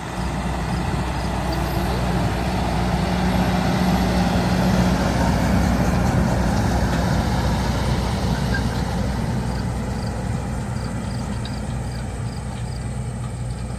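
Farm tractor engine running steadily under load, a loud continuous drone that swells a little in the middle and eases toward the end.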